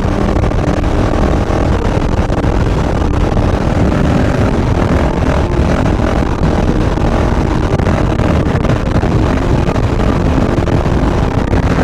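Three-cylinder street bike engine running steadily at road speed, mixed with heavy wind noise over a rider-mounted microphone.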